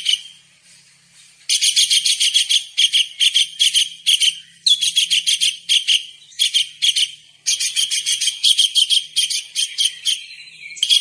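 Tengkek udang (small kingfisher) calling: long runs of rapid, high-pitched, shrill notes repeated in bursts with short breaks. The first run starts about a second and a half in, after a brief pause.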